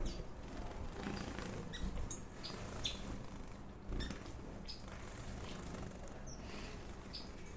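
Small aviary birds chirping, many short high calls scattered irregularly, over a steady low hum.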